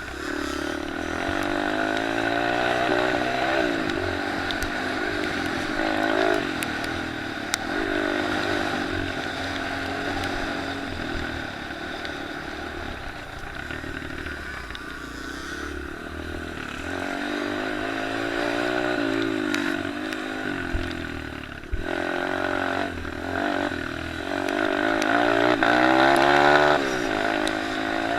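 Several small motocross pit bikes racing, their engines revving up and down with the pitch repeatedly climbing and dropping through gear changes and throttle; the engines are loudest a little before the end.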